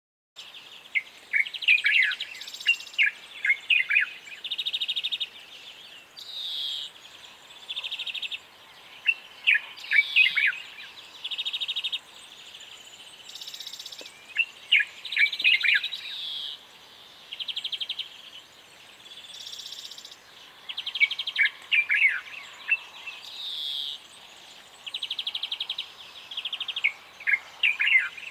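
Birds singing: clusters of quick, sharp chirps alternate with short buzzy trills, the pattern repeating every few seconds.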